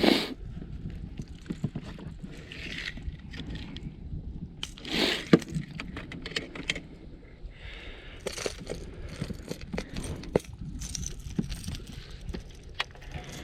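Scattered small clicks, rattles and rustles of fishing tackle being handled as a crankbait is tied onto the line, with two louder brief rustles, one at the start and one about five seconds in, over a steady low rumble.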